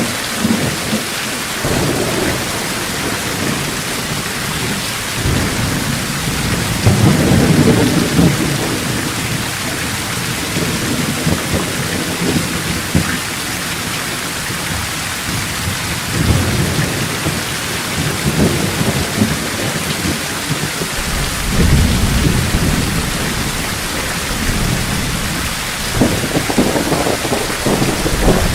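Heavy rain falling steadily, with rolls of thunder rumbling low several times: one strongest about a quarter of the way in, others past the middle and near the end.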